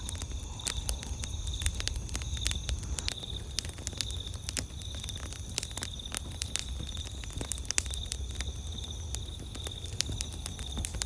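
Wood campfire crackling, with many sharp irregular pops and snaps over a low steady rumble of the burning fire. Behind it, insects keep up a steady, evenly pulsing high trill.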